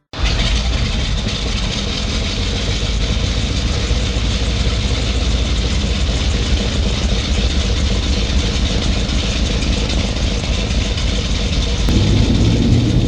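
Piston engines of a Lockheed EC-121K Super Constellation (four Wright R-3350 radials) running in a loud, steady drone. About twelve seconds in, the drone turns deeper and a little louder.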